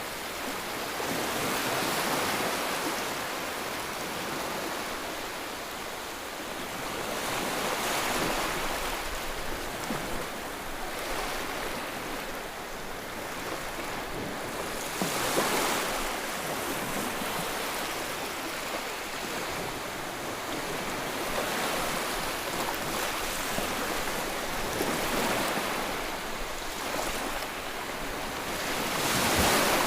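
Steady rushing white noise that swells and eases every several seconds, like waves breaking on a shore.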